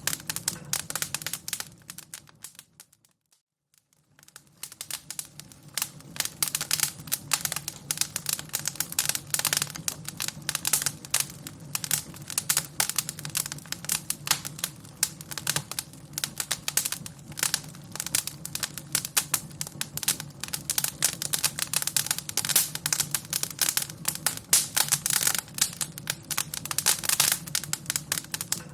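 Fire crackling with dense, irregular pops over a low steady rumble. The crackling fades away about two seconds in and is nearly silent for a moment, then starts again about four seconds in and carries on steadily.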